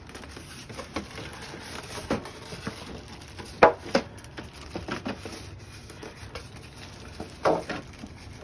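Handling sounds while unpacking a printer: scattered light knocks, taps and rustles of cardboard and packing. The loudest are two sharp knocks in the middle and a longer scrape near the end.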